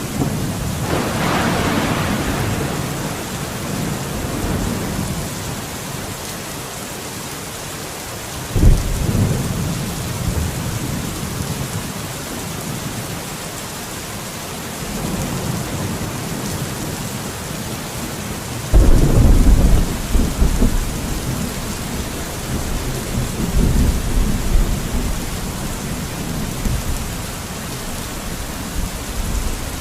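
Steady rain, broken by deep rumbles that come in suddenly about nine seconds and about nineteen seconds in, each lasting a few seconds, with another rumble fading out just after the start.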